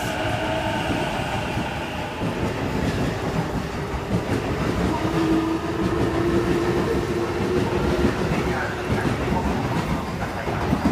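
A JR East E233 series 7000 electric commuter train running past, its wheels clattering over the rail joints with a continuous rumble. A steady tone rises out of the noise for a few seconds near the middle.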